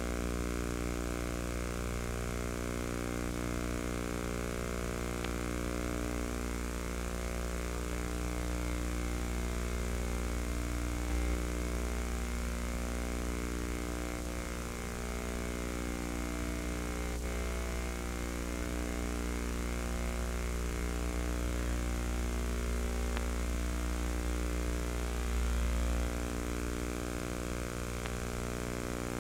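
A steady, buzzy hum with many even overtones, strongest low down, unbroken throughout.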